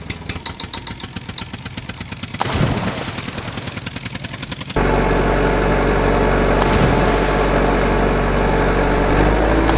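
Diesel tractor engine sound: a fast, even chugging putter for about the first five seconds, then an abrupt cut to a louder, steady engine drone.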